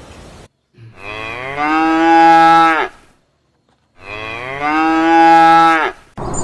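Cow mooing twice, each moo a long call of about two seconds that starts low and swells louder, with a short silence between.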